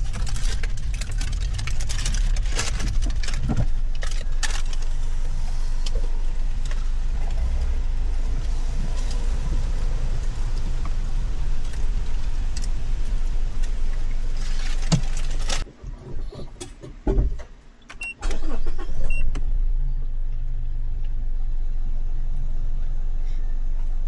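Inside a car in the rain: a steady low engine rumble with rain hissing and ticking on the body. About two-thirds of the way through, the sound drops out briefly with a few thumps, then the steady rumble returns without the rain hiss.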